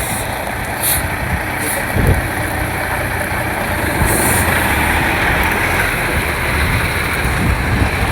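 Semi-truck's diesel engine running steadily as the rig backs slowly, with a few short high hisses about a second in, near two seconds and around four seconds.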